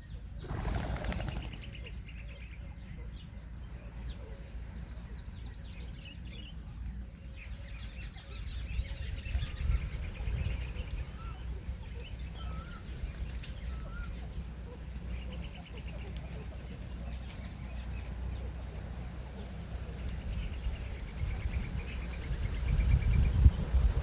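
Birds chirping and twittering on and off over a steady low rumble, with a short burst of noise about half a second in.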